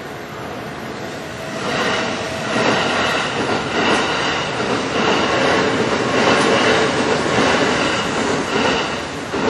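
Electric train running past on the Kintetsu Nara Line at a level crossing, its noise rising about a second and a half in and staying loud until near the end.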